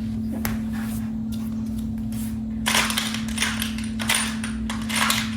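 Metal screwdriver bits clicking and rattling as they are handled and swapped. There are a few scattered clicks at first, then a run of louder rattles from about halfway through, over a steady low hum.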